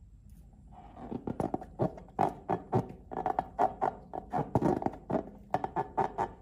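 Slime being squeezed and worked by hand, giving a quick run of wet, sticky clicks and pops that starts about a second in and stops just before the end.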